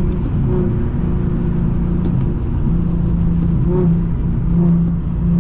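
Infiniti G37x's 3.7-litre V6 engine running at highway cruise, a steady drone over road rumble, its pitch shifting slightly.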